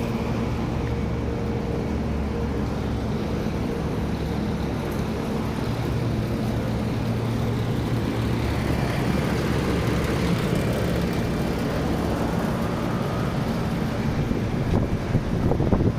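25-ton Trane packaged air conditioning unit running: a steady mechanical hum over the rush of its fans, with a few irregular knocks near the end.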